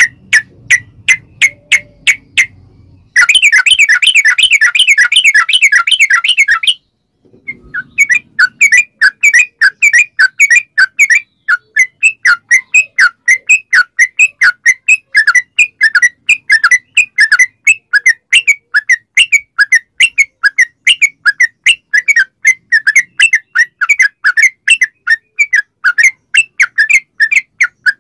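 Yellow-vented bulbul (trucukan) singing a long rapid-fire series of short whistled chirps. A dense, loud flurry of notes comes a few seconds in, breaks off briefly, then gives way to a steady run of quick repeated notes, about three or four a second.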